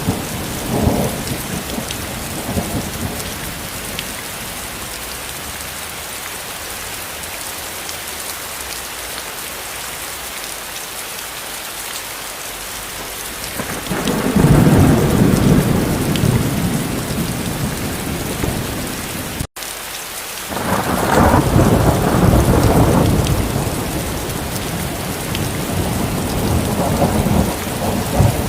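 Steady rain with rolling thunder. The rumbles come near the start, about 14 seconds in, just after 20 seconds and again near the end. A split-second drop to silence comes about 19 seconds in.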